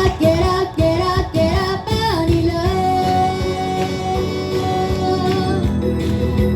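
Female vocalist singing a J-pop idol song over a backing track: short rising phrases, then one long held note from about two seconds in.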